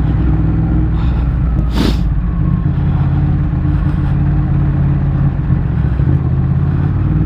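Motorcycle engine running steadily in traffic, a low drone with a short burst of noise about two seconds in.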